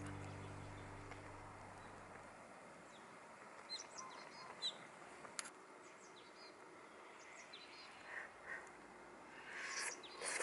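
Background music fading out, then faint outdoor ambience with small birds chirping on and off. A light click in the middle and soft rustling near the end.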